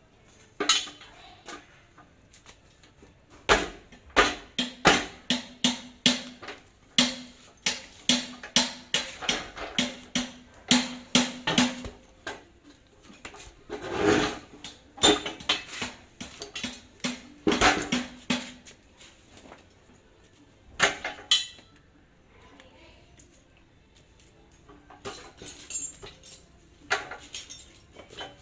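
Metal tools and parts knocking and clinking, in a quick run of strikes at about two a second with a ringing metallic note under them, then in scattered knocks, from work on a hand pallet truck's hydraulic pump.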